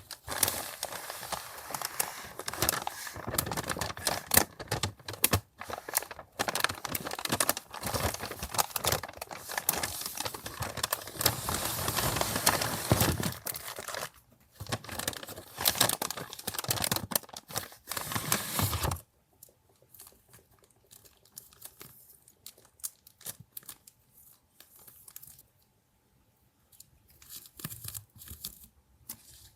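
Paper and packaging torn and crinkled by hand, a dense continuous crackling and ripping for about nineteen seconds. It then drops to a few faint rustles and light taps.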